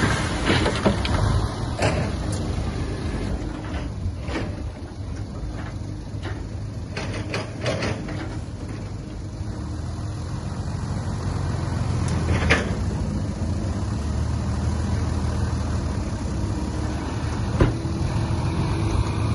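Heavy diesel earthmoving machinery running steadily, with a dozen or so sharp metallic clanks and knocks scattered through it, clustered around the second and eighth seconds. The engine sound eases off in the middle and grows louder again after about ten seconds.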